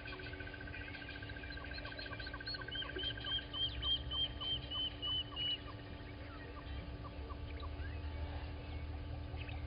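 Several birds calling. A fast trill runs through the first three seconds or so. It is overlapped by the loudest sound, a run of about a dozen quick, high notes from about three to five and a half seconds in, with a slower string of short notes, about two a second, behind them. A low rumble and a steady hum lie underneath.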